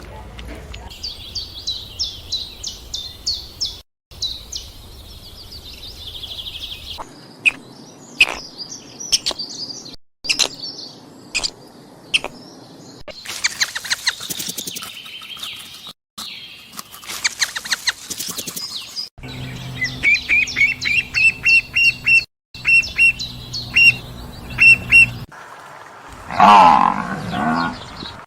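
Small birds chirping and peeping in a string of short clips cut one after another, including a run of quick, evenly repeated chirps. Near the end comes a single louder, lower call that rises and falls in pitch.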